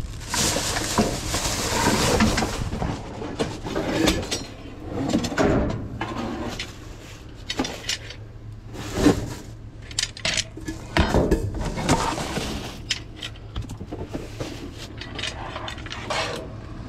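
Scrap items clattering and clinking as they are rummaged through and moved, with many irregular sharp knocks and rattles.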